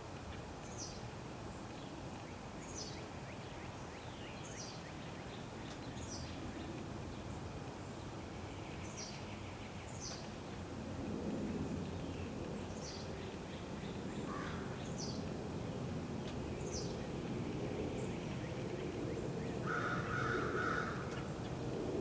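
A small bird repeats a thin, high, falling note about once a second over a low, steady rumble that grows louder about halfway through. Near the end comes a short, harsher call, which could be a crow's caw.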